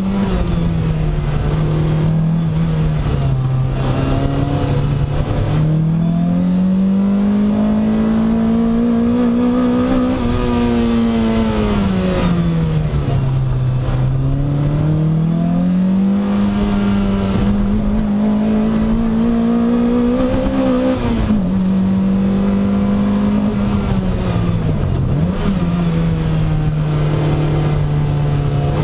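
Lotus Exige's Toyota 2ZZ-GE 1.8-litre four-cylinder engine at hard throttle, heard from inside the cabin: the engine note climbs and falls repeatedly as the car accelerates and brakes through the corners, with sudden steps down in pitch several times, over a steady rush of road and tyre noise.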